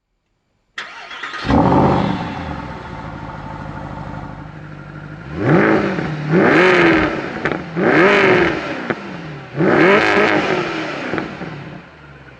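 Mercedes C63 AMG Black Series 6.2-litre V8 starting: it catches with a sudden burst and flares up, then settles to idle. It then revs four times, rising and falling back to idle after each, with the middle two revs held longer.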